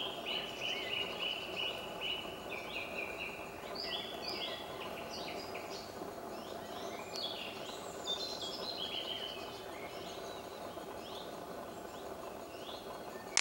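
Woodland birdsong: several birds singing short chirped and whistled phrases throughout, over a steady low background rumble.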